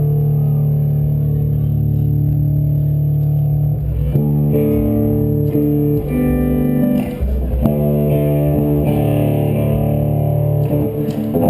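A live band playing guitar-led music over a steady bass, with held chords that change several times.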